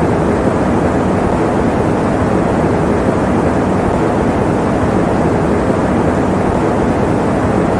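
Electric fan running steadily, a constant rushing noise strongest in the low and middle range, used as sleep white noise.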